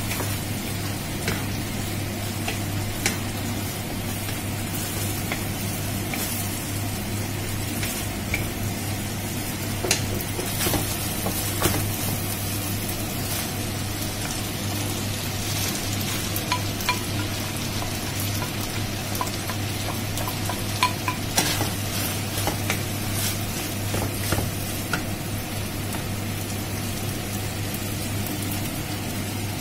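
Minced lamb sizzling in a nonstick wok while a wooden spatula stirs it, with scattered sharp taps of the spatula against the pan. About halfway through, diced celery, onion and carrot are tipped in and the frying goes on.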